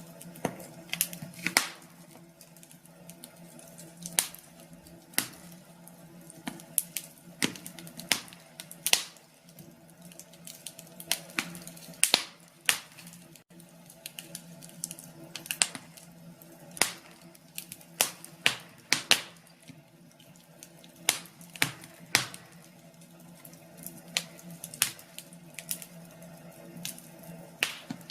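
Wood fire crackling, with irregular sharp pops and snaps, a few a second at their busiest, over a steady low hum.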